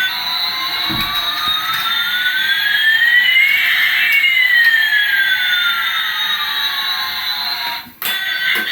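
Electronic sound effect: two tones slide in opposite directions over a steady hiss, one rising while the other falls, crossing about halfway through and then drawing apart again, before cutting off abruptly near the end.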